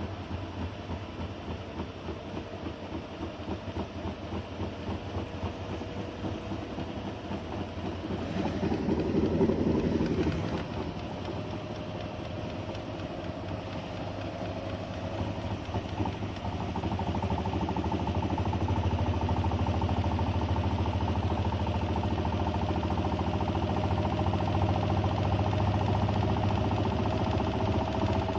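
Siemens washing machine running: a steady motor hum with a fast pulsing, its tone slowly rising in pitch, growing louder about two-thirds of the way through.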